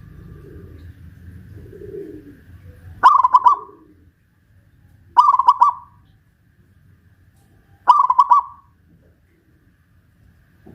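Zebra dove (perkutut) singing: three loud, short phrases of rapid pulsed cooing, about two to three seconds apart, the first about three seconds in.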